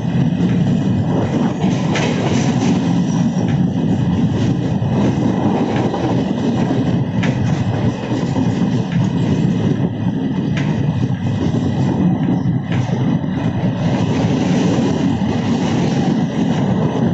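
Alappuzha–Dhanbad Express running along the track: a steady, loud rolling rumble with a few sharp clicks of the wheels over rail joints.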